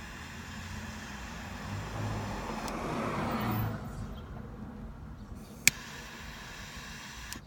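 Cigar being lit inside a car: a rushing hiss of about two seconds, then a sharp click a couple of seconds later, over a steady low hum.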